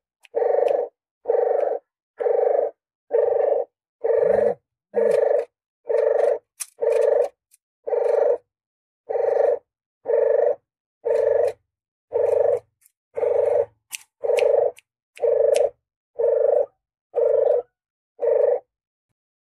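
Puter geni dove cooing: a short low coo repeated about once a second at an even pace, used as a lure call for hunting. The coos stop just before the end.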